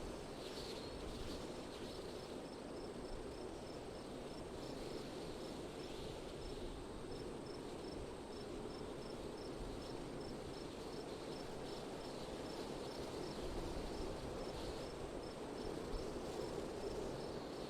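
Steady wind blowing, with an insect, likely a cricket, chirping in a regular high-pitched series of about three chirps a second.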